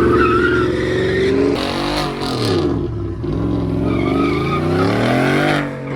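Vehicle engine revving hard: its pitch holds high, drops about two seconds in, then climbs again and falls away near the end.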